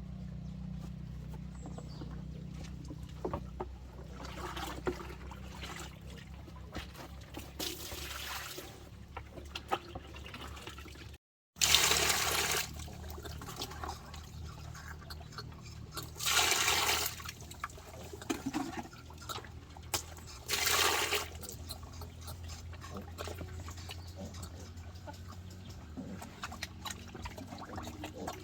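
Water pouring or sloshing in three rushes of about a second each, some four seconds apart, over a steady low hum.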